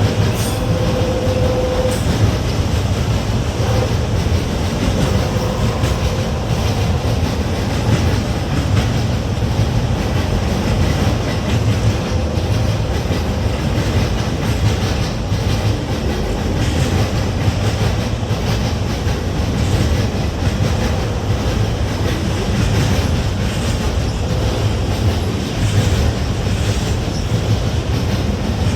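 Freight train cars rolling steadily past, a continuous loud rumble with wheels clacking over the rail joints.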